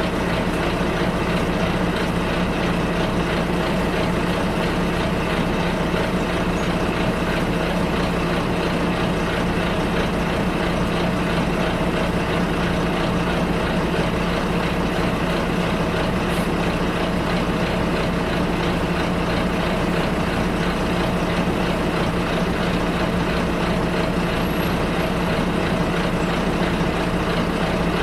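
Bus interior during a ride: the diesel engine running at a steady pitch under an even rumble of road noise, with no sudden events.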